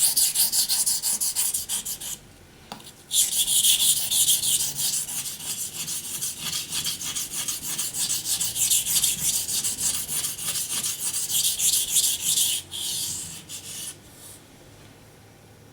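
A steel knife blade being stroked back and forth on a wet Japanese waterstone: a fast run of gritty scraping strokes, with a short break about two seconds in and stopping near the end. This is the initial sharpening of the knife's V edge.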